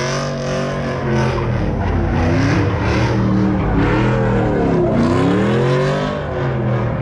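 A car engine revving hard and easing off, over and over, its pitch rising and falling about three times.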